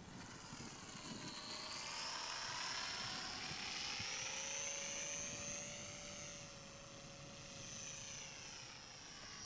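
Electric motor and propeller of a Top RC Hobby 450mm mini SF260 model plane in flight: a high whine that grows louder and climbs in pitch over the first few seconds, then eases down.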